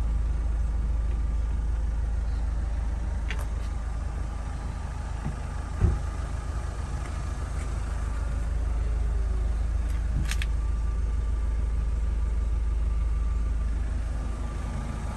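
Range Rover Evoque's engine idling, a steady low rumble. A single dull thump comes about six seconds in, with two light clicks before and after it.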